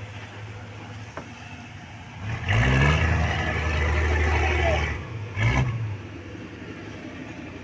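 Boat engine idling with a low hum, then throttled up hard for about two and a half seconds and blipped once more briefly while the boat is manoeuvred forward and astern alongside.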